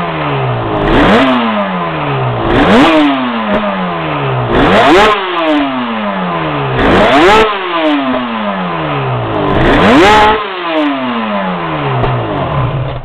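Yamaha RZ350R two-stroke parallel-twin engine being revved repeatedly: about five quick blips of the throttle, each rising sharply and falling away slowly. The uploader thinks the mixture is running a bit rich overall.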